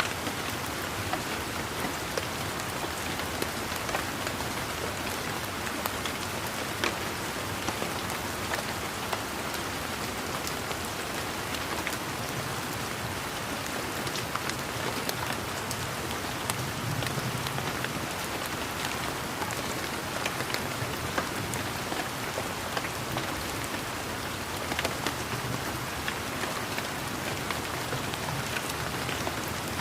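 Steady rain falling on garden foliage, a continuous patter with many individual drops ticking sharply against surfaces.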